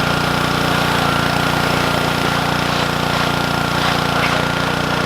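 Small engine running steadily at an even speed, with a constant high whine over it.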